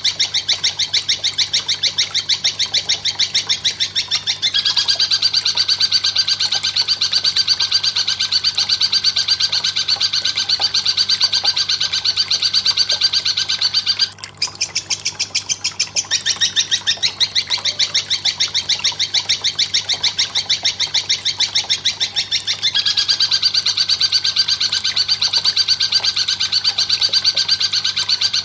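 Looped bird-mastering recording: a fast, rapid-fire chattering call repeated without pause. It breaks off briefly about halfway through and changes character twice. A faint steady hum runs underneath.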